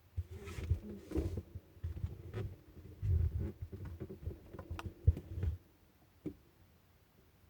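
Muffled knocks, bumps and rubbing for about five seconds, with a few sharper clicks, heard through the closed freezer the iPad is recording in; then quiet apart from one more knock.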